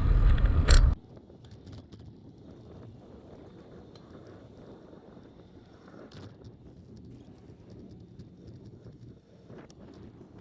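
Wind buffeting the microphone of a camera on a moving bicycle, with a loud low rumble that cuts off suddenly about a second in. What follows is a faint hiss with scattered light clicks.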